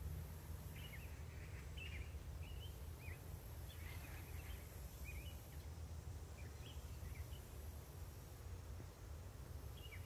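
Small birds giving short, high chirps, a dozen or so scattered through most of the stretch and one more near the end, over a low steady rumble.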